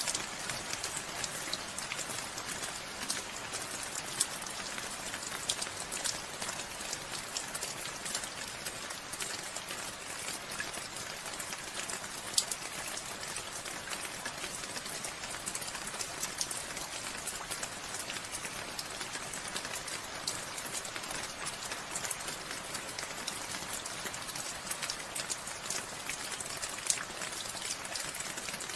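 Steady rain falling, with many individual drops ticking sharply on a surface over the constant hiss of the downpour.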